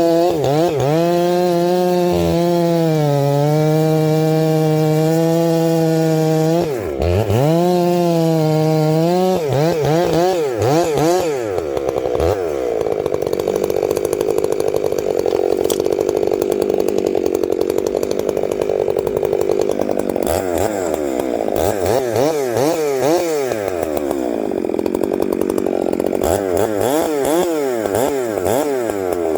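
Chainsaw running at high revs, with a brief dip in pitch about seven seconds in. From about ten seconds on, its pitch swings quickly up and down as the throttle and load change.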